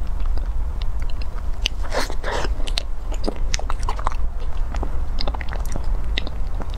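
Close-miked eating of a soft chocolate-coated cake: wet mouth clicks and smacks of chewing, with a short crackle about two seconds in.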